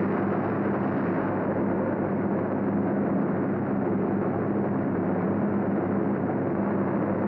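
Steady, unbroken drone of piston aircraft engines, with a constant low hum.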